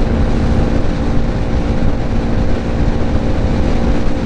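Heavy wind noise buffeting a microphone inside a motorcycle helmet at highway speed, about 95 km/h. Under it is the steady drone of the BMW G310GS's single-cylinder engine.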